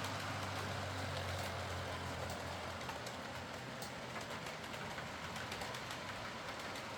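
Heljan Class 23 OO gauge model diesel locomotive running on layout track: a steady motor and gear hum with faint clicking of the wheels over the rails. The low hum weakens about two and a half seconds in.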